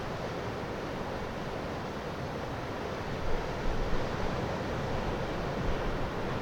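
Steady rush of surf and wind at the shore, with wind gusting on the microphone from about halfway through.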